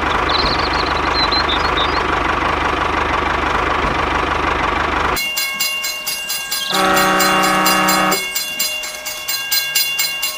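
Train passing: a steady rumble for about five seconds, then a rapid, even clickety-clack of wheels over rail joints, with the train horn sounding once for about a second and a half.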